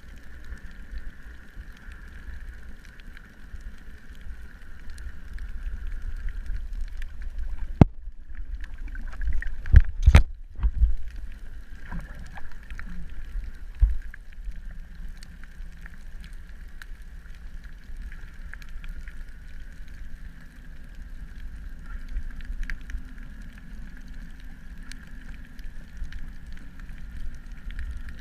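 Underwater sound picked up through a camera housing: a steady low rumble of water with a steady higher hum over it. A cluster of loud knocks and thumps comes about eight to eleven seconds in.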